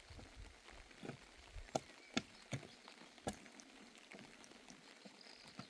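A handful of light, sharp knocks and clicks at irregular intervals, the loudest just before the middle, over a faint low rumble.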